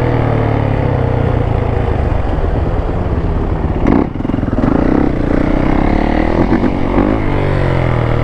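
Dirt bike engine running, its pitch rising and falling with the throttle, with a brief clatter about four seconds in.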